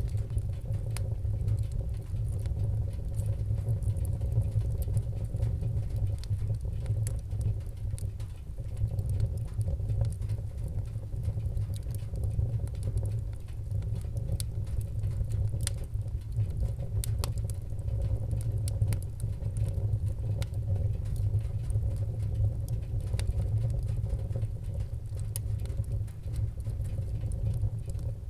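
Fireplace fire burning with a steady low rumble and many small sharp crackles and pops of burning wood scattered throughout.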